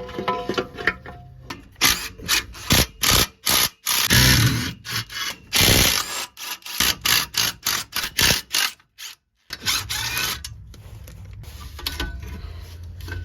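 Hand tools working on metal car parts: a run of clanks, scrapes and ratcheting strokes, with a brief dropout about nine seconds in and quieter working after it.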